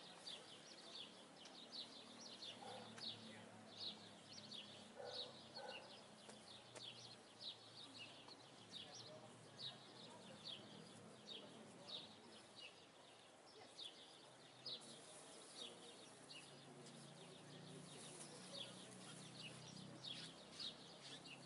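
Faint, steady chirping of small birds: short, high chirps repeated about two or three times a second.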